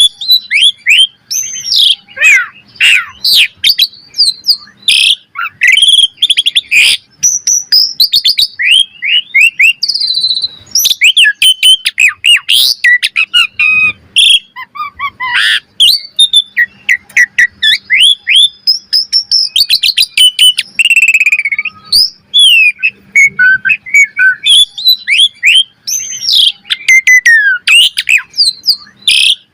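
Asian pied starling (jalak suren) singing a loud, continuous, varied song: rapid whistled slurs up and down, chattering runs and sharp clicks with hardly a pause.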